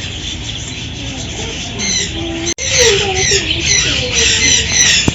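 Many caged birds calling at once, a dense mix of chirps and squawks. A brief dropout comes about two and a half seconds in, after which the calling is louder and busier.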